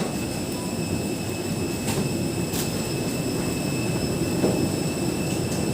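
Steady low rumble of a vehicle in motion, with faint steady high whines and a few light clicks.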